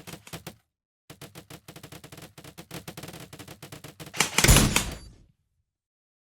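Airsoft gun firing in rapid bursts, sharp clicks at roughly ten a second: a short burst, then a longer run of about three seconds. A louder burst of noise follows near the end of the firing, then it goes silent.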